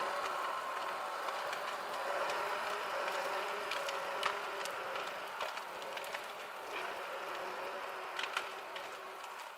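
Heavy forestry machine's engine running steadily, with scattered sharp clicks and metal knocks in the second half.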